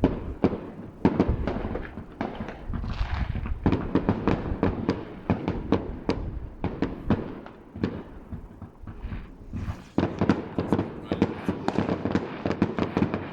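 New Year's Eve fireworks: a dense, unbroken crackle of many bangs and pops, several a second, with louder single bangs standing out now and then.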